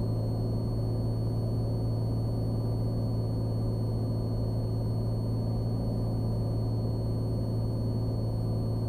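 Cessna Skylane's piston engine and propeller droning steadily in cruise descent, a low even hum heard inside the cockpit, with a faint steady high-pitched whine over it.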